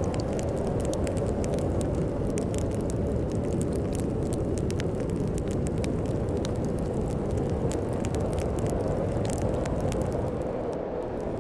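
Wood fire crackling, with frequent small sharp pops, over a steady low rush of storm wind.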